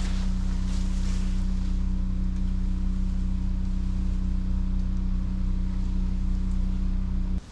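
A machine runs with a steady, loud electric-motor hum and a faint hiss, then cuts off suddenly near the end.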